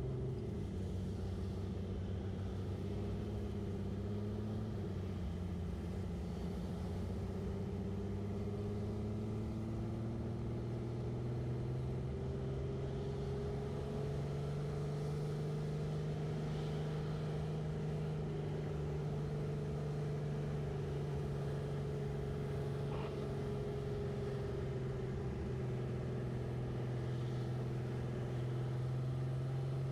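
A 1965 Chevrolet C10's inline-six engine running steadily in slow traffic, heard from inside the cab. Its pitch drifts gently with engine speed, rising a little midway and then holding.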